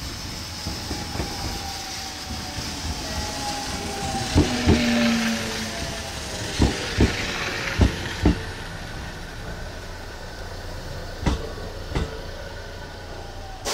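JR 313 series electric train slowing on its approach to a stop. Its wheels click over the rail joints in pairs, with the gaps between the pairs growing longer as it slows, and the whine of its inverter motors falls slowly in pitch under braking.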